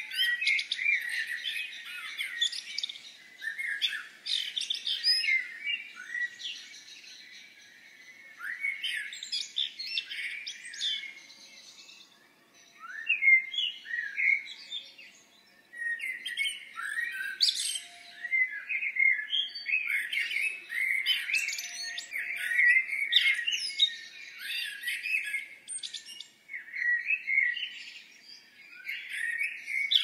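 Songbirds chirping and singing in quick, overlapping phrases, with a few short pauses.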